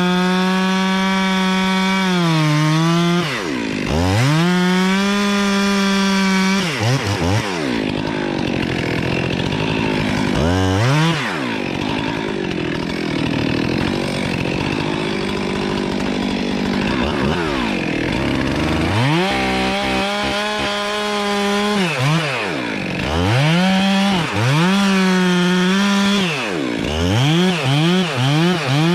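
Two-stroke chainsaw running at full throttle, its engine note dropping and revving back up several times. Through a long stretch in the middle the note sinks and turns rough as the chain cuts through wood, and near the end the throttle is blipped in quick succession.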